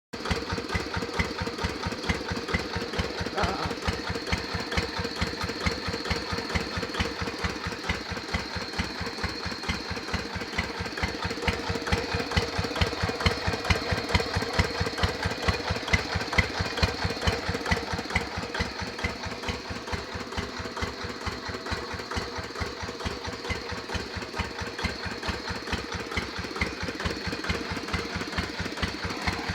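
Dongfeng single-cylinder diesel engine running steadily through a Kubota muffler, giving an even, rapid 'ceklik ceklik' exhaust beat.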